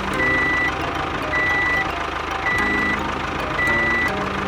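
Truck reversal alarm beeping four times, about once a second, each beep a single high tone of about half a second, over a running engine.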